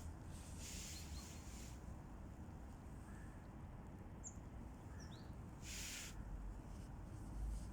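Faint background with a few short, high bird chirps about four to five seconds in, and two brief hissy rustles, one about a second in and one near six seconds.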